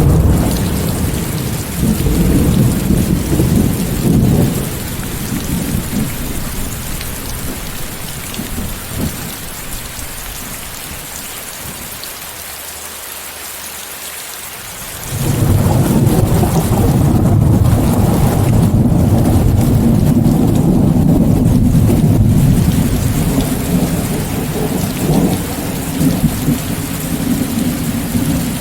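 Steady heavy rain, mixed with white noise, with rolling thunder. A low rumble at the start dies down after about four seconds. About halfway through, another long rumble comes in abruptly, holds for several seconds and slowly fades.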